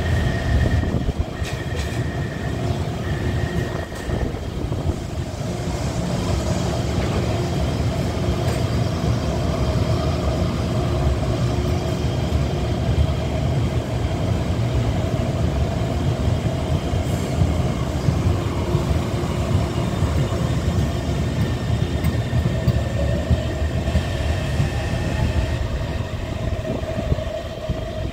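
Taipei Metro C321 electric multiple unit running on track, a steady rumble of wheels and running gear with the tonal whine of its Siemens GTO-VVVF traction inverter; the inverter tone rises in pitch about 22 seconds in as the train picks up speed.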